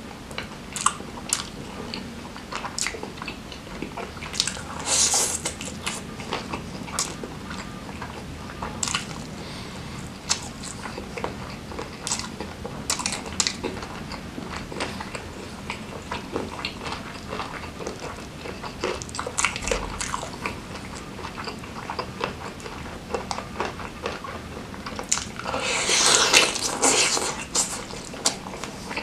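Close-miked wet chewing and smacking of sambal-coated grilled chicken, with a steady run of small mouth clicks. There are two louder stretches of biting, about five seconds in and again near the end.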